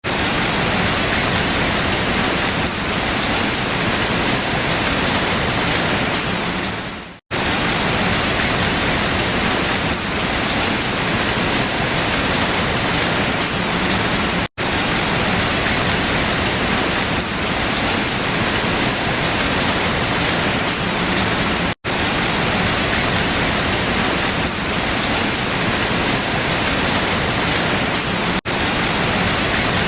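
Steady rain falling on leaves: a dense, even patter. Four times it cuts out for an instant, about every seven seconds.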